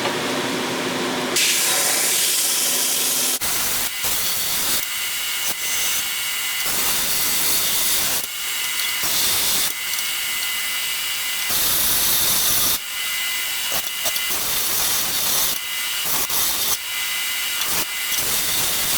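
Repeated rasping strokes of an abrasive working the steel sword blade, each stroke lasting a second or two, over a steady background hum.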